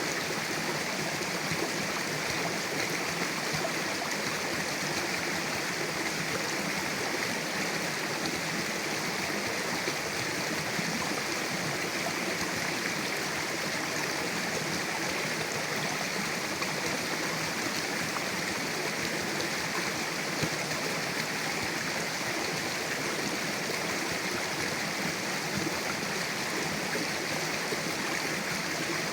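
Mountain river rushing steadily over rocks: an even, unbroken wash of water noise.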